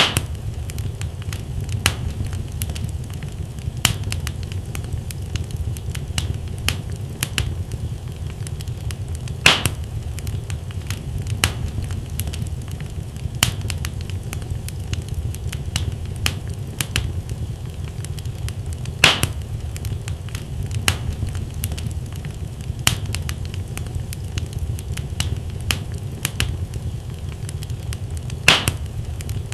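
Wood fire crackling: a steady low rumble of flames with scattered sharp snaps from the burning logs, and a few louder pops about every ten seconds.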